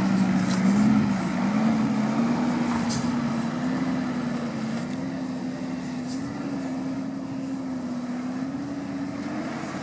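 Off-road vehicle engine running under load, its pitch climbing slowly and steadily while the sound gradually gets a little quieter.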